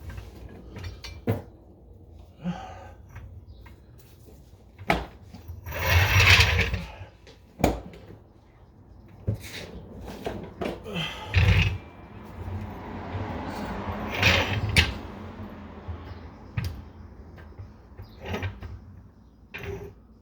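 Irregular knocks, clicks and scraping from hands-on work on a car's exhaust, with a few louder rustling or scraping bursts.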